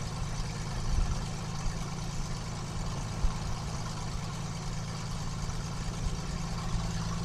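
KR2 light airplane's piston engine idling steadily on the ground after start-up, a low, even hum.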